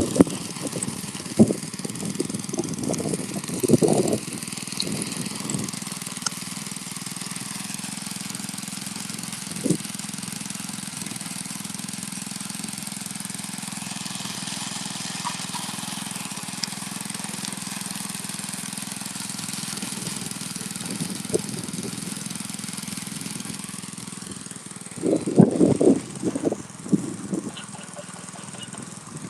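Ride-on power trowel engine running steadily as it finishes a concrete slab. Irregular bursts of louder noise come through in the first few seconds and again near the end.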